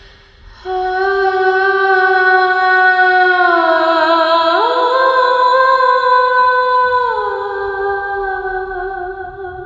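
A woman singing or humming a slow melody without words, in a few long held notes joined by slides: a drop, a jump up, then a glide back down.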